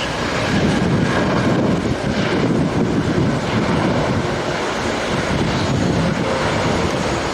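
Arriving jet airliner's engines, a loud steady rush, with wind buffeting the microphone.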